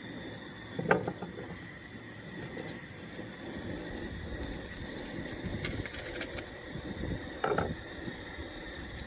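Camp cooking gear being handled: two short knocks, about a second in and near the end, with a few light clicks between, over a steady faint high insect drone.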